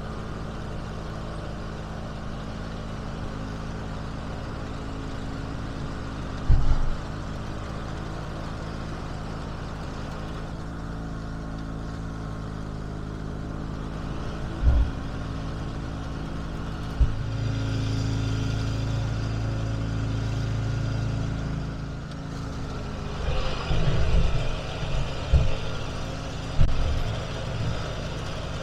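1980 IH Cub Cadet 582 garden tractor's engine running steadily at idle, with the engine note louder for a few seconds around the middle. Short knocks and thumps come every few seconds, more of them near the end.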